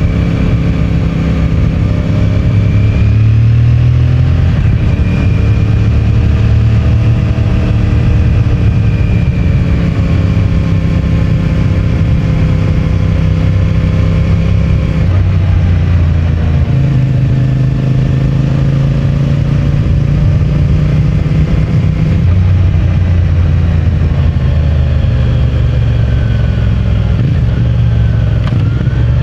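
CFMOTO 450MT's parallel-twin engine running under way on its stock exhaust, the engine note rising and falling several times as the bike pulls and eases off. It is heard through a mic in the rider's pant pocket.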